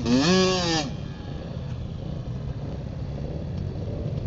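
A loud shout with a rising-then-falling pitch, lasting under a second at the start, followed by the steady low rumble of a vehicle engine running.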